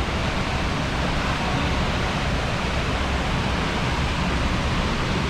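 Steady rush of falling water from a waterfall and stream, an even hiss with no breaks.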